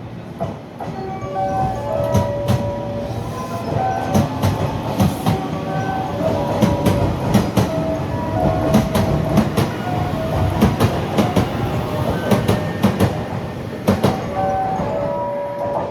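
A train rolling past at close range, its wheels clattering over rail joints with many sharp clicks over a low rumble. Short squeals come from the wheels or brakes throughout, and the sound grows louder over the first few seconds.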